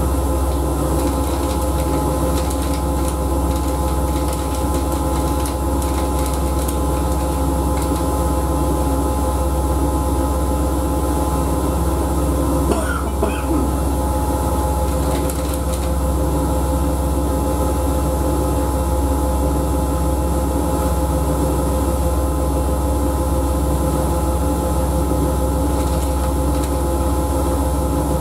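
Siemens Siwamat washing machine running at a steady speed: a constant motor hum with a steady whine over it. A brief pitched sound cuts in about halfway through.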